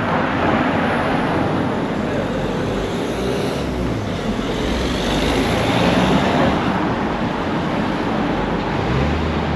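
Road traffic passing close by: steady engine and tyre noise with a low rumble, swelling as a vehicle goes past around the middle.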